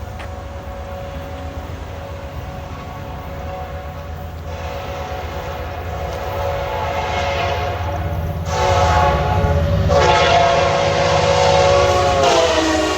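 Amtrak diesel locomotive approaching and passing with its engine rumbling, sounding its chime horn in long blasts that grow louder. The horn's pitch drops near the end as the train goes by.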